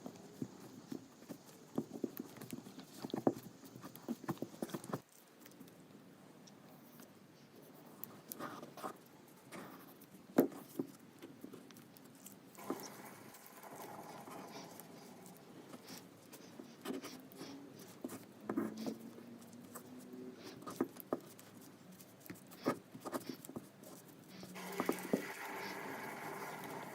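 Irregular light clicks and taps of hand work on small metal gun parts, with a faint steady hum joining twice, once in the middle and again near the end.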